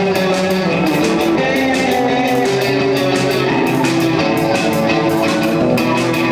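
Rock band playing: guitar over a steady drum beat.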